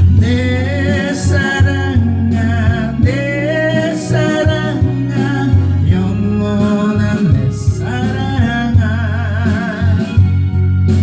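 A singer singing a melody with vibrato on the held notes, over steady instrumental accompaniment.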